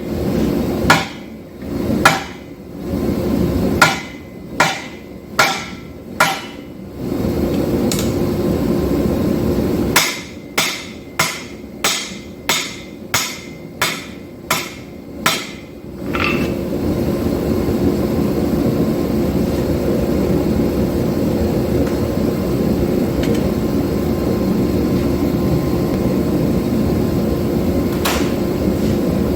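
Hammer blows ringing on hot 5160 steel over an anvil, roughly one or two a second, in two runs of about a dozen and seven strikes. Between the runs, and through the last half, there is a steady low rushing noise, typical of the forge running while the steel reheats.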